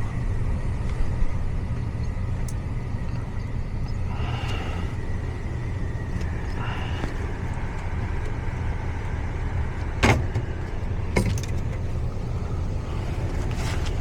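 Steady low hum of a running residential air-conditioning system, one that is not shutting off, with a few sharp knocks: a faint one about a second in and two louder ones about ten and eleven seconds in.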